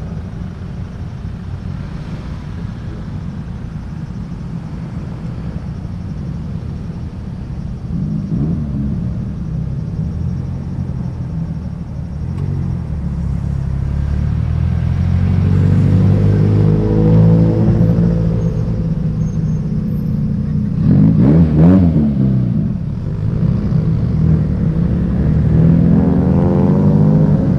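Cars' engines and exhausts as they drive off one after another, a low rumble that grows louder about halfway through. About three quarters of the way in, one car passes close, revving up and dropping back sharply, and more engines rev near the end.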